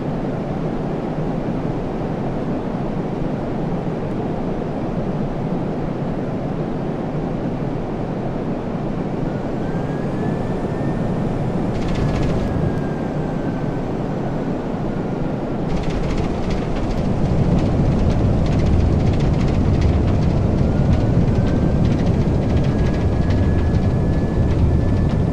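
Boeing 777-300 jet engines during landing: a steady rush with a faint whine that rises and falls in pitch, turning louder and rougher about sixteen seconds in.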